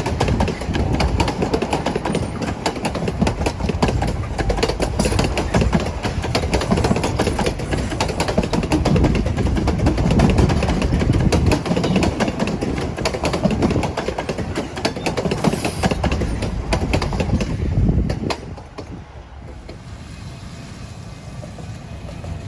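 Durango & Silverton narrow-gauge train rolling past, a loud rumble with rapid wheel clicks, dropping off sharply about eighteen seconds in.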